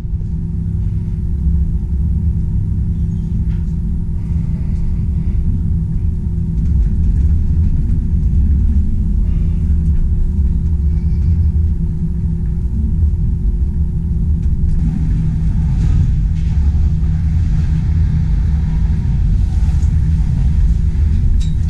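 Train running: a steady, loud low rumble with a low hum, whose higher note drops out about 15 seconds in.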